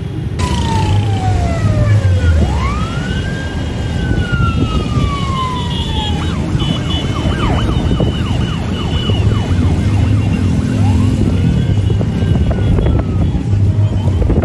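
Sirens wailing in slow rising and falling sweeps over the dense rumble of many motorcycle engines.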